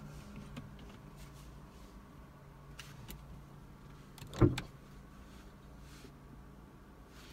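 A car engine idling low and steady, with a few light clicks and one sharp thump about four and a half seconds in.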